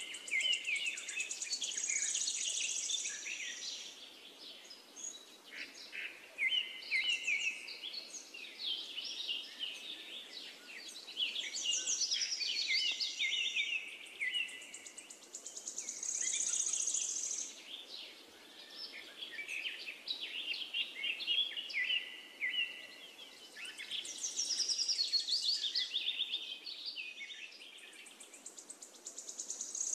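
Birds singing in repeated phrases of quick chirps and high, fast trills, a new phrase every few seconds.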